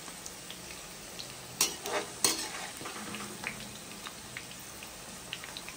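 Jackfruit pieces frying in hot oil in a pan: a steady sizzle with scattered small crackles. Two louder knocks of a stirring utensil against the pan come about a second and a half and two seconds in.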